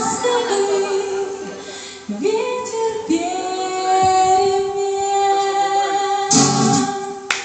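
A female voice singing over instrumental backing, holding long final notes as the song ends. A few claps start right at the end.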